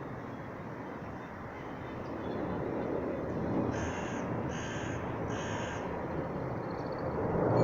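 A bird giving three harsh calls in quick succession, each about half a second long, over a low rushing background noise that grows louder about two seconds in.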